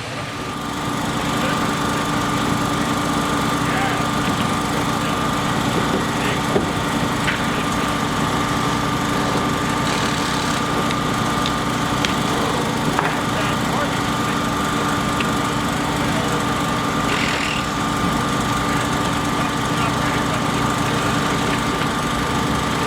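A small engine or motor running steadily at an even pitch, starting up about a second in, with a few faint clicks over it.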